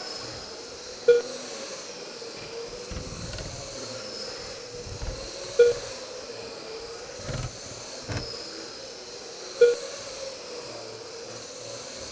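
Brushless electric motors of 21.5-class RC racing trucks whining as the cars lap the track, the pitch rising and falling as they speed up and slow down. A short beep about every four seconds, three times, matches the roughly four-second lap pace, typical of the lap-timing system registering a car crossing the line.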